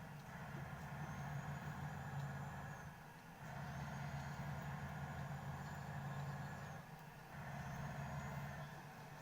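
Car engine and road noise while driving. The sound swells in three stretches with brief drops between them, and a faint high whine rides along with each stretch.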